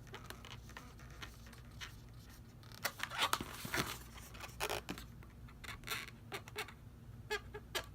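Sharpie marker drawing on latex balloons, with the balloons rubbing as they are handled: short, scratchy squeaks and rubs that start about three seconds in.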